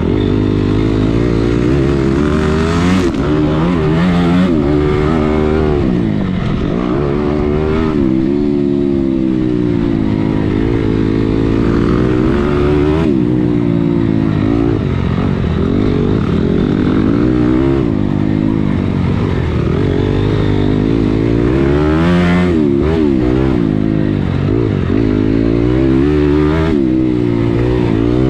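Dirt bike engine being ridden hard, revving up and dropping back over and over as the throttle is opened and closed and gears change.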